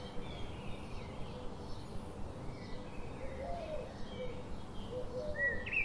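Several birds chirping and calling in short, scattered notes, with a few lower short calls, over a steady background hiss.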